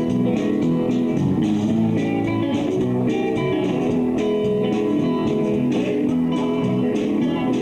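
Live bar band playing an instrumental passage with electric guitars, bass and drums in a blues-rock style.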